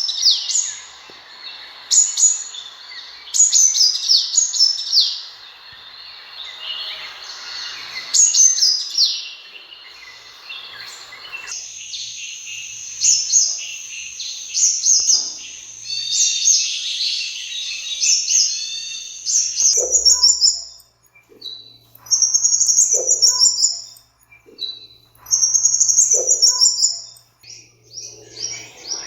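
Sunbirds calling: rapid, high-pitched chirps and twittering trills. About a third of the way in, the background hiss drops away and the twittering runs on more continuously. Near the end it breaks into short bursts of chirps about every three seconds.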